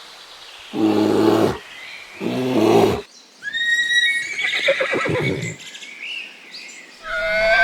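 Animal calls: two short, low calls in the first three seconds, then high, wavering, quavering calls that come again near the end.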